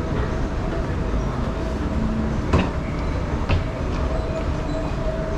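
Steady low rumble of a busy enclosed walkway, with two sharp knocks about a second apart midway through.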